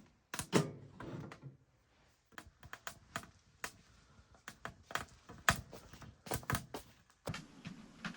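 A string of irregular knocks, clicks and clunks from things being handled, with a heavier thud about half a second in.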